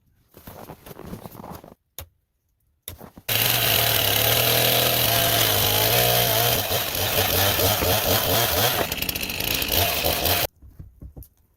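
Chainsaw running and cutting timber. It starts abruptly a few seconds in, runs steadily for about seven seconds with a shift in its pitch midway, and cuts off sharply near the end. Before it come a second or two of lighter, scattered work sounds.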